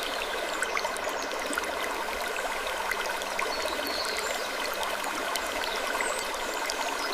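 Steady rushing, stream-like noise with scattered small clicks and a few short high creaks every few seconds.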